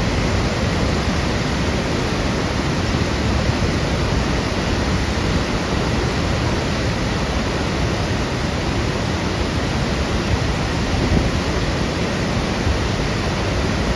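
Water pouring over the Hartebeespoort Dam spillway: a steady, loud rush of falling water, heaviest in the low range, with no breaks.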